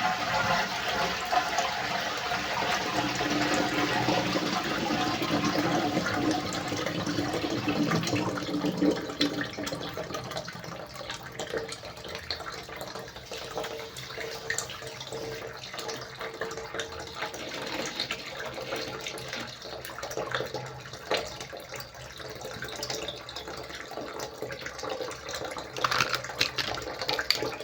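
Toilet flushing, then the tank refilling through its repaired fill valve. Water runs loudly for the first ten seconds or so, then settles into a quieter steady refill.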